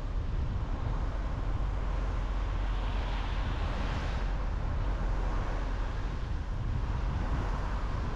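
Car driving at speed: steady road and wind noise with a deep tyre rumble, the hiss swelling briefly in the middle.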